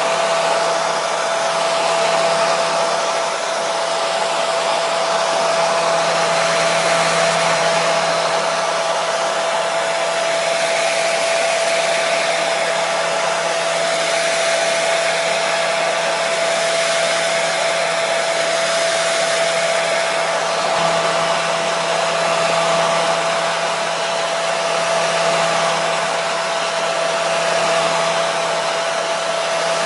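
Hair dryer running steadily: an even rushing airflow with a constant motor whine.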